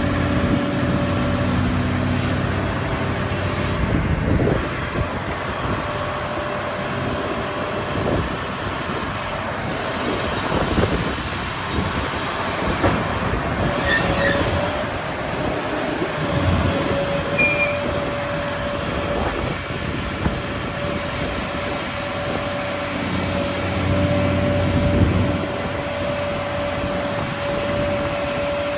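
Hitachi Zaxis EX1200-6 mining excavator running, a steady mechanical whine over the engine with scattered metallic knocks and squeals. The low engine sound swells for a couple of seconds near the end.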